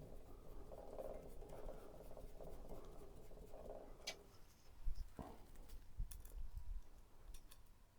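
Hands working on PC parts: a few seconds of scraping and rubbing, then several light, sharp clicks about a second apart.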